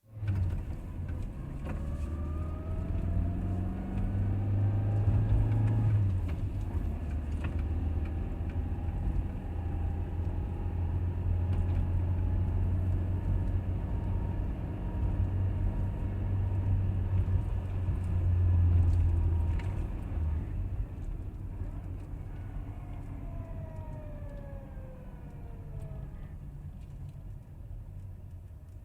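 Car driving, heard from inside the cabin: a steady low engine and road rumble, with the engine pitch climbing over the first few seconds as it speeds up and falling again near the end as it slows.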